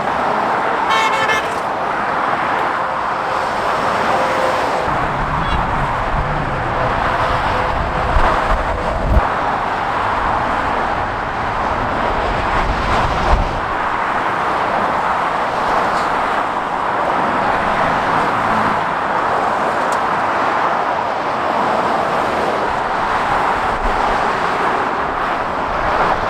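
Steady motorway traffic, mostly the hiss of tyres at speed. Several times a heavy lorry's deeper rumble swells and fades as it passes.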